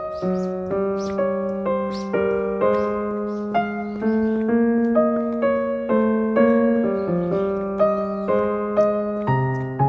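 Background piano music: a gentle melody of single notes about two a second over held bass notes.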